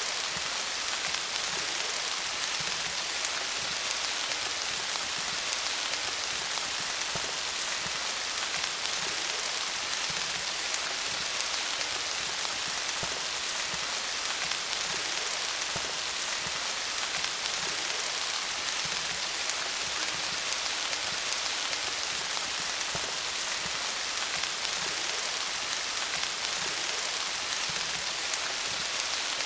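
Steady rain pattering on leaves: a dense, even hiss of many small drop ticks, strongest in the high range, with no change in intensity.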